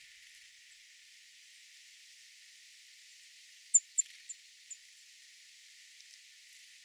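A small bird giving four short, high chirps in quick succession, the first two loudest, over a steady high hiss of outdoor ambience.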